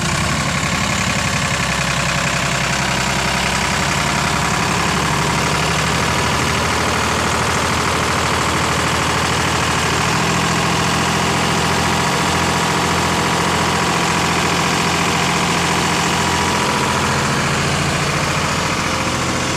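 Sonalika DI-50 Rx tractor's diesel engine running at a steady idle, its note shifting slightly about halfway through.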